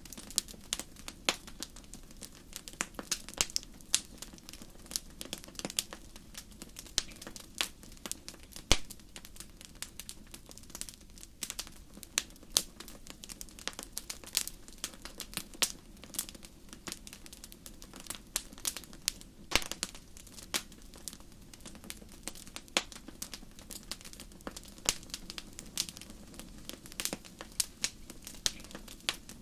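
Wood fire crackling in a fireplace: irregular sharp pops and snaps, several a second, over a soft steady background.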